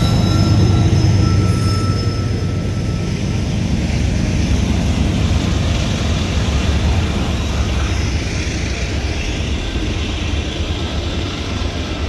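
Loaded CSX coal train rolling past at close range: the trailing end of a diesel locomotive goes by first, a little louder in the first couple of seconds, then loaded coal cars follow with a steady low rumble of wheels on the rails.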